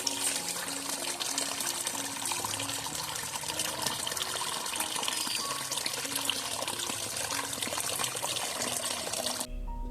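Steady running, trickling water with soft background music notes over it; the water cuts off suddenly near the end, leaving only the music.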